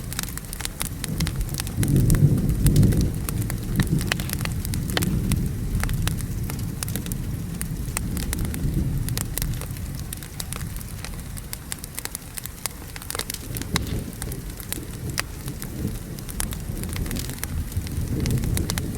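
Wood fire crackling and popping in a fireplace, with sharp snaps all through, over steady rain. Low thunder rumbles loudest a couple of seconds in, dies away in the middle and swells again near the end.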